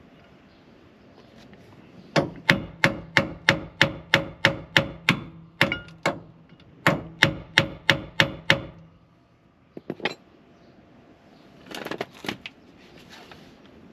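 Hammer blows on metal tools, about eighteen sharp strikes at roughly three a second, each ringing briefly, with short pauses between the groups. This is followed by a couple of light clinks and a short rattle near the end.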